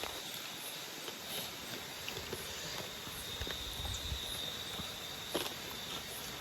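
Nocturnal tropical forest insects keep up a steady high-pitched drone over a constant hiss, with scattered light ticks and taps.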